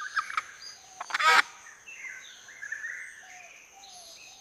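Forest ambience of scattered bird chirps and calls, with one loud, short call about a second in, over a steady high thin tone.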